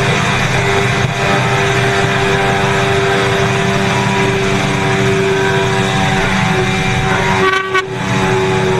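Motorcycle engine running at a steady pitch, with a short dip and break in the sound near the end.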